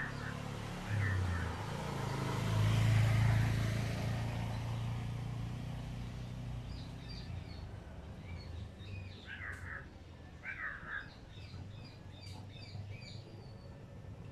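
Birds calling: a run of short, high chirps and a few lower, harsher calls in the second half. Under them is a low rumble that swells for the first few seconds and then fades.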